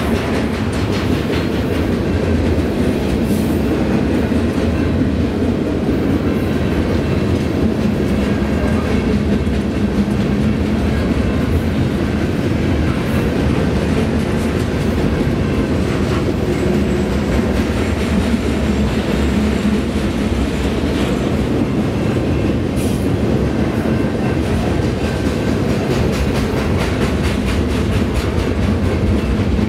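Freight train rolling past at a steady pace: continuous wheel-on-rail noise with occasional clicks.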